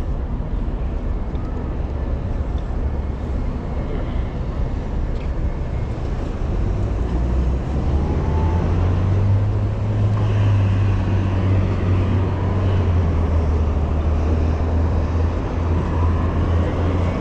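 Low wind rumble on the microphone of a moving bicycle, over city street traffic; the rumble grows louder about halfway through.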